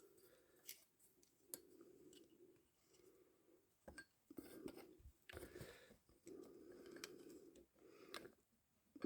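Near silence with a few faint, scattered metallic clicks and scrapes as a motorcycle clutch friction plate and a measuring tool are handled while the plate's thickness is measured.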